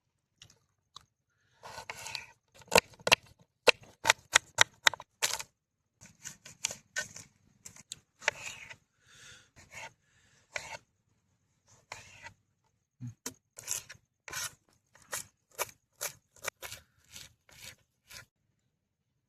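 Food preparation by hand: sharp knife-like strokes, quick in runs, with scraping and rustling between them.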